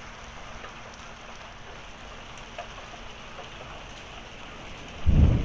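Steady heavy rain mixed with small pea-size hail. Near the end a sudden loud, deep rumble of thunder breaks in.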